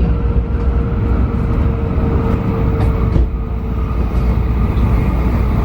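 Steady low rumble of a Tokaido Shinkansen train running, heard inside the passenger car, with a faint steady hum that fades about four seconds in and a single click about three seconds in.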